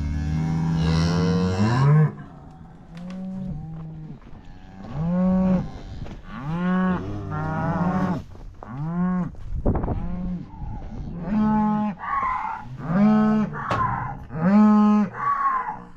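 Cattle mooing: one long moo at the start, then a run of short, repeated calls about one a second that get louder toward the end.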